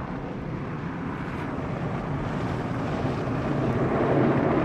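Automatic car wash tunnel equipment, heard from inside the car: a steady rushing noise that grows a little louder toward the end.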